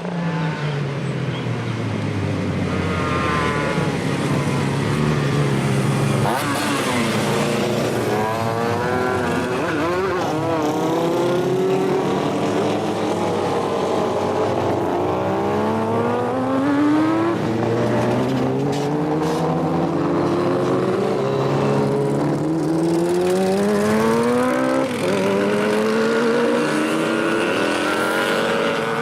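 Pre-1980 motorcycle engines running hard, their pitch climbing and falling again and again as they accelerate and ease off.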